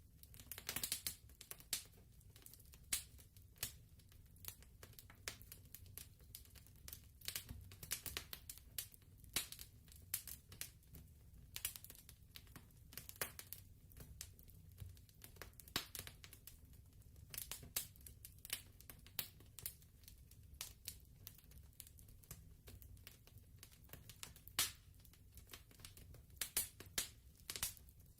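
Fireplace crackling: irregular sharp pops and snaps, several a second at uneven spacing, over a faint low rumble.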